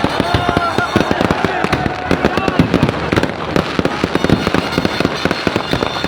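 Fireworks and firecrackers going off in a rapid, continuous string of bangs and crackles, with people's voices in the background.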